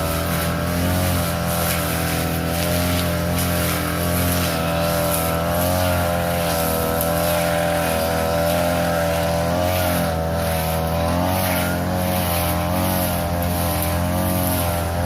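Small petrol engine of a grass-cutting machine running steadily at high speed while cutting overgrown, weedy grass, its pitch wavering slightly under the load.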